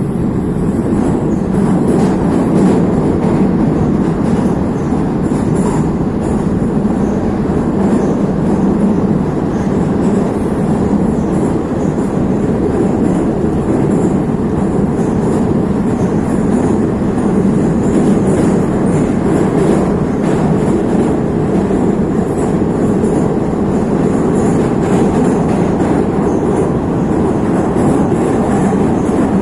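Neva metro train running at speed through a tunnel, heard from inside the car: a steady, loud rumble of wheels on rails and traction motors.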